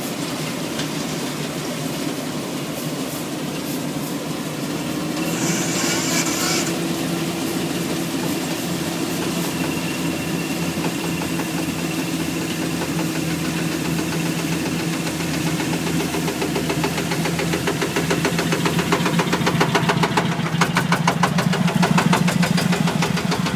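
Thai e-taen farm truck's single-cylinder diesel engine running steadily, with a short hiss about six seconds in. Near the end it grows louder, with a quicker, denser beat.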